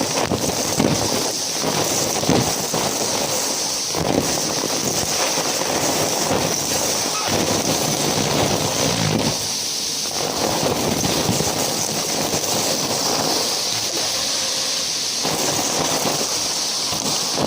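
Numatic James tub vacuum cleaner running steadily with a constant high airflow hiss, while its floor tool sucks up dry debris in irregular crackling, rattling bursts that come and go.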